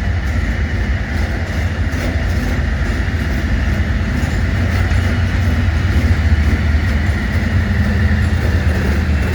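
A train running past close by on the rails: a steady low rumble with wheel-on-rail noise, a little louder around the middle.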